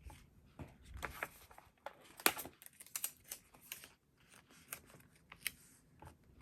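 Light handling of sticker sheets and journal paper: scattered soft clicks, taps and crinkles as stickers are picked off and pressed onto the page, the sharpest click about two seconds in.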